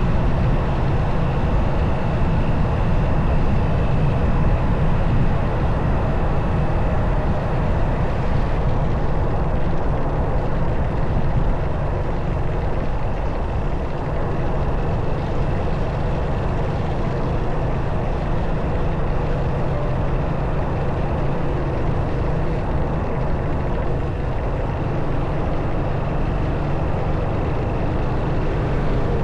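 Motorcycle riding along with its engine running steadily under a heavy low rumble of wind and road noise on the camera's microphone.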